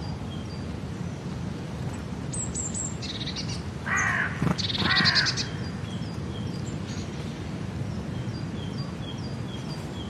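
Birds calling in an outdoor soundscape: two louder calls about four and five seconds in, with small birds chirping at a regular pace throughout over a steady low background noise.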